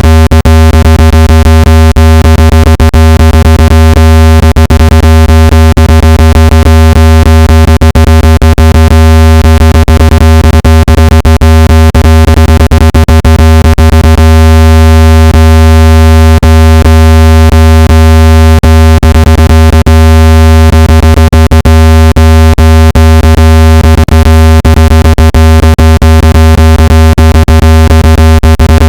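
Steady, very loud low electronic hum with a stack of overtones and frequent clicks through it: a speaker-cleaning tone, played to vibrate water and dust out of a phone speaker.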